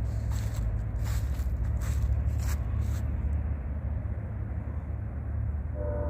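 A low steady rumble with scraping and rustling over the first three seconds. Near the end a diesel locomotive's air horn starts sounding a steady chord of several notes as the train approaches a grade crossing.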